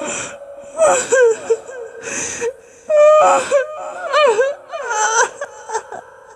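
A cartoon character's voice wailing and sobbing loudly: a string of cries whose pitch bends up and down, over a held wailing tone.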